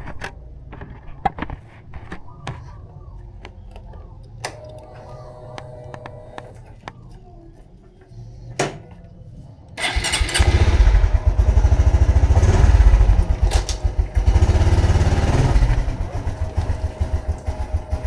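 Honda Supra X 125 FI's single-cylinder four-stroke engine comes in loudly about ten seconds in, running with a fast pulsing beat, then drops back to a quieter idle near the end. Before that there is only a low rumble with scattered clicks and knocks.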